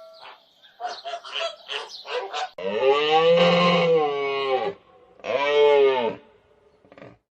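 An animal calling: a quick series of short calls, then a long drawn-out call and a second, shorter one.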